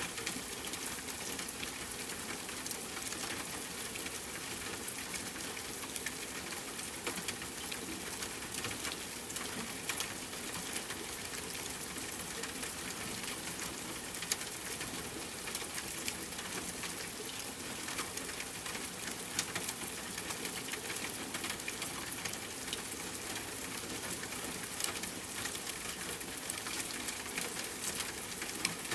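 Steady rain falling: a constant hiss with many small, sharp drop ticks scattered all through it.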